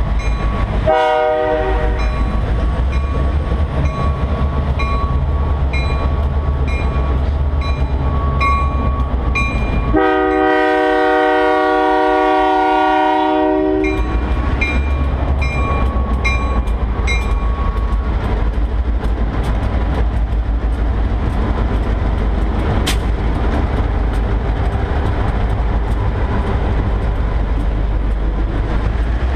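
Diesel freight train passing close by: the locomotive horn gives a short toot about a second in and one long chord blast from about ten to fourteen seconds, over the steady low rumble of EMD GP38-2 diesel locomotives and rolling freight cars. A bell dings about twice a second through the first half.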